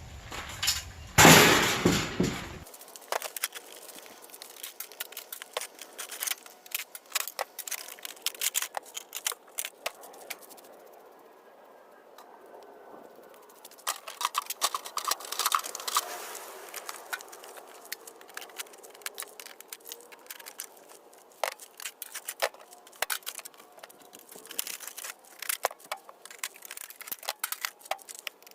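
Metal scrap from air conditioners being taken apart by hand: irregular sharp clicks, snaps and clinks of tools on metal, with a louder burst of handling noise about a second in.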